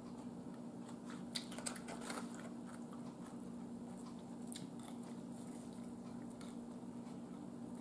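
A person chewing barbecued meat with the mouth closed, faint, with a few small clicks about one to two seconds in, over a steady low hum.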